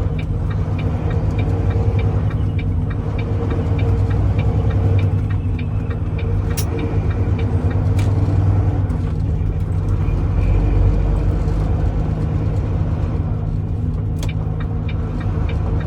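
Diesel engine of a Class A tractor-trailer running steadily, heard from inside the cab as a low rumble, with a few sharp clicks.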